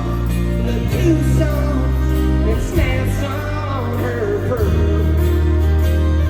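Live country band music with a singing voice over it.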